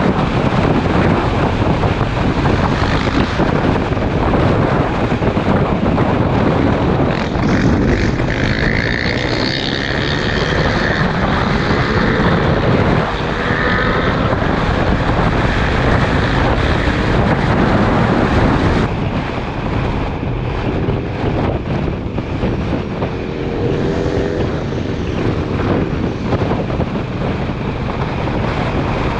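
Motorcycle riding at speed, its engine running beneath heavy wind rush on the microphone. The engine note rises and falls a few times.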